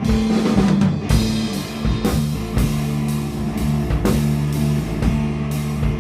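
Instrumental rock band playing, with guitar, bass guitar and a drum kit and no vocals, in a rough live mix: held bass notes under guitar, with drum and cymbal hits throughout.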